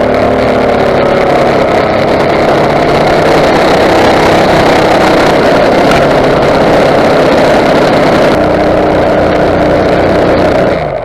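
Small engine of a tracked motorized snow pusher running steadily at high revs as it drives through deep loose snow.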